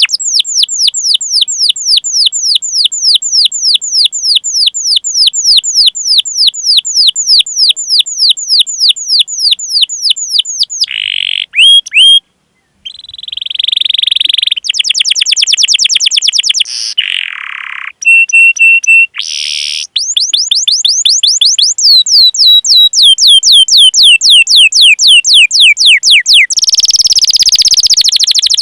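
Domestic canary singing a long training song. Long runs of rapid down-slurred 'cuit cuit' chirps come several a second, broken around the middle by varied trills, a brief pause and a short steady whistled note. More chirp runs follow, and there is a buzzy passage near the end.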